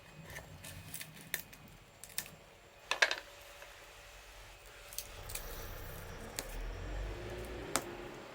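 Wood fire crackling: irregular sharp pops and snaps of burning wood, the loudest about three seconds in, over a low rumble that grows in the second half.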